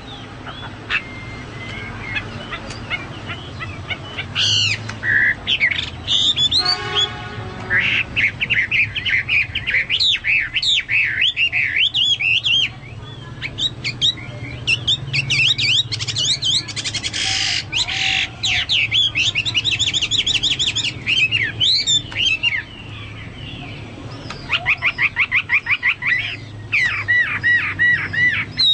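Hwamei (Chinese hwamei) singing a loud, varied song of quick sweeping whistled notes and rapid repeated trills, in a style likened to a cucak Papua or cucak mas. A faint steady low hum sits underneath.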